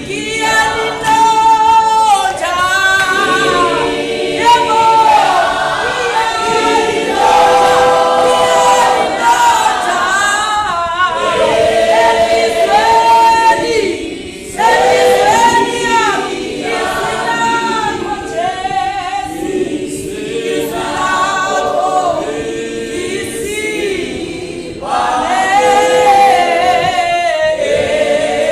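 A congregation singing a gospel hymn in harmony, mostly unaccompanied, in long held phrases with brief breaks between lines.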